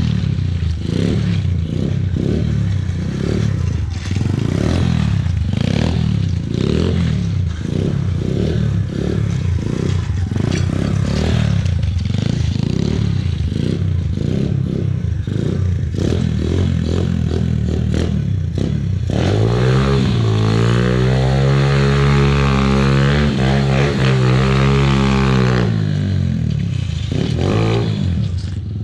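Yamaha Blaster quad's 200cc single-cylinder two-stroke engine running with an uneven low pulsing, then revving up and down for several seconds about two-thirds of the way through before dropping back.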